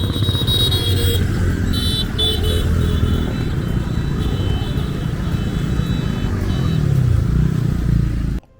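Motorbike engine running while riding, its pitch dipping and rising near the end; the sound cuts off suddenly just before the end.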